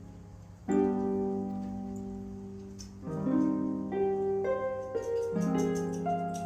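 Background music: soft piano chords, struck every second or two and left to ring and fade.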